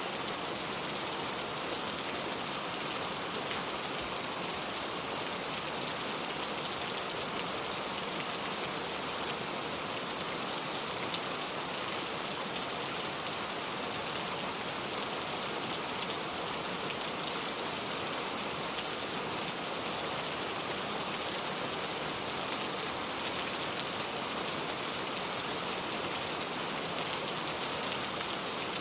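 Steady, heavy pouring rain, a dense even hiss of drops falling on surfaces.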